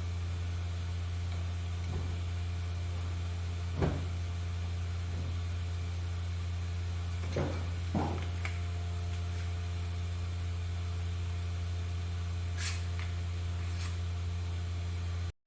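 A steady low hum with a few scattered light clicks and knocks as tools and parts are handled at a workbench; the sound cuts off suddenly near the end.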